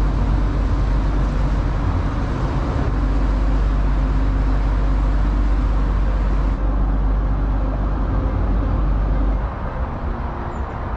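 Steady low rumble of the barge's engine running under way, mixed with the hiss of motorway traffic on the M25 bridge overhead; the traffic hiss drops away about six and a half seconds in.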